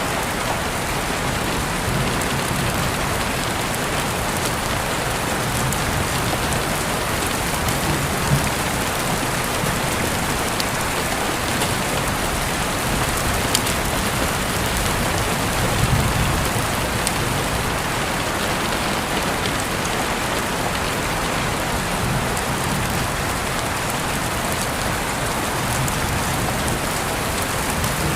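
Steady rain falling and pattering on surfaces, with a few louder single drops now and then.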